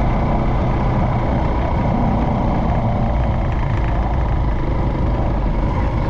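Motorcycle engine running steadily during a ride, a continuous low drone with noisy rush on top.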